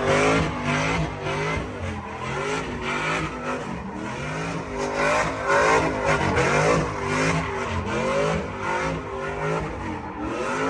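Truck engine revving hard, its pitch rising and falling over and over, as the truck does a burnout with tires squealing against the pavement.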